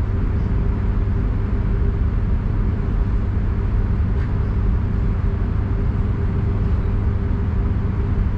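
Passenger train running at a steady pace: a continuous low rumble with a steady hum, and a faint click about halfway through.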